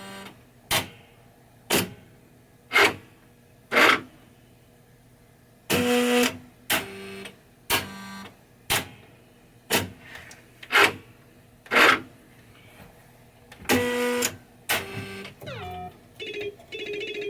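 Williams Funhouse pinball machine clacking sharply about once a second, with two louder bursts of electronic sound about six and fourteen seconds in and short beeps near the end.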